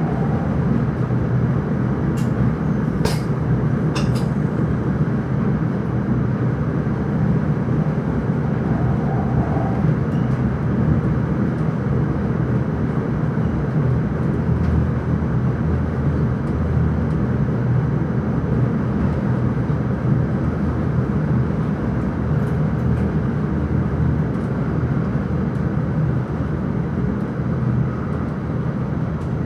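Steady running rumble of an electric intercity train, heard from inside the driver's cab, with a few sharp clicks about two to four seconds in.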